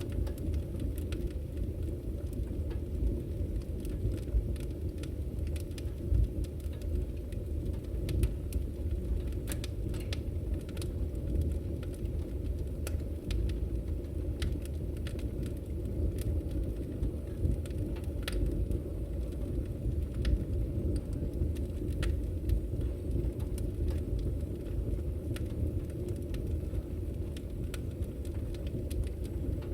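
Firewood burning in a Victory Camp Taiga wood stove: a steady low rumble of the fire with frequent sharp crackles and pops from the burning logs.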